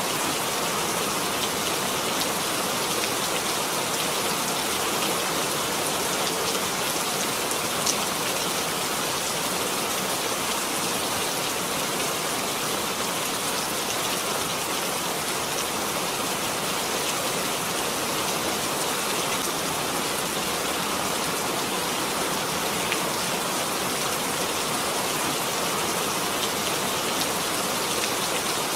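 Steady rain falling, an even hiss of many drops with a few single drops standing out briefly.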